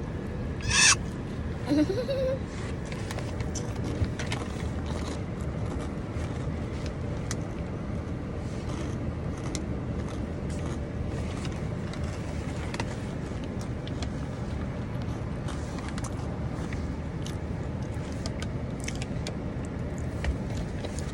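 Shrimp chips being crunched and chewed, heard as scattered faint crunches over a steady low rumble like a moving car's cabin. One loud crunch comes about a second in, and a brief squeal of a child's voice follows about two seconds in.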